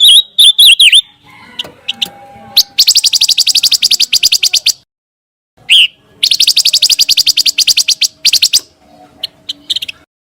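Recorded song of the bird known to Indonesian bird-keepers as pancawarna. A few quick warbled whistles open it, then come two long, rapid trills of sharp notes at about ten a second, starting about three and about six seconds in, with short chips between them.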